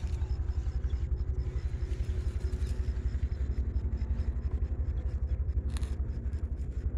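A low engine running steadily with a rapid, even thump.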